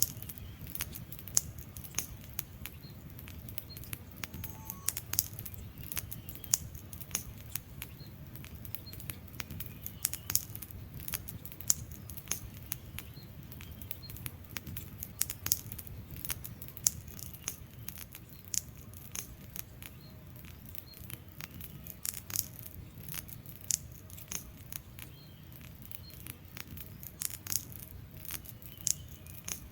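Logs burning in a fireplace, crackling: irregular sharp pops and snaps, several a second, over a low steady rumble.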